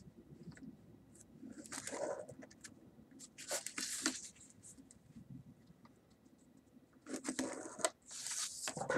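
Pen scratching on paper as a line is drawn, mixed with paper being handled: three short scratchy bursts, about two seconds in, four seconds in, and from about seven seconds in.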